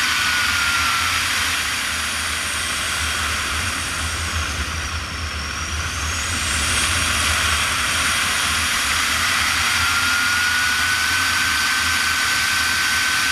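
Airflow rushing over a glider's cockpit in flight, with no engine, and a thin whistle in it. The whistle falls in pitch at the start and comes back rising near the end. The rush dips a little in the middle, as the airspeed changes through the manoeuvre.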